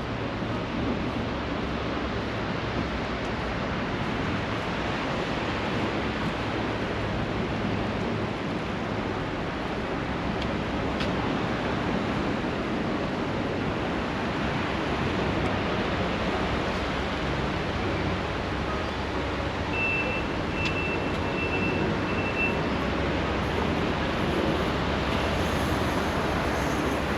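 Steady rushing of surf and wind along a seafront, growing louder near the end as a train approaches on the seawall railway. A short run of high beeps comes about two-thirds of the way through.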